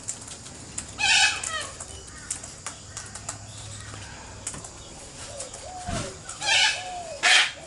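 Wild cockatoos calling with harsh screeches: one loud burst about a second in and two more near the end, with softer bird calls and faint clicks in between.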